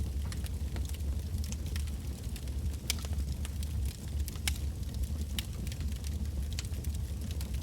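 Wood fire burning, with a low steady rumble and frequent sharp, irregular crackles and pops of the logs.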